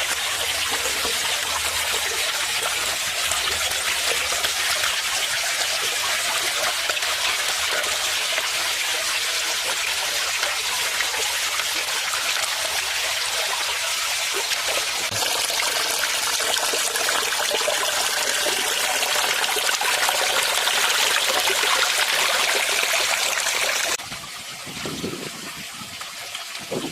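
Water from a small waterfall splashing steadily into a pond. Near the end it suddenly drops to a quieter, more broken trickle.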